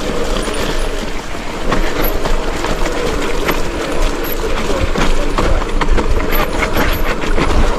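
Mountain bike riding fast down a wet, muddy, rooty trail: a continuous rattling and clattering of the bike over rough ground, with many sharp knocks and a faint steady whine underneath.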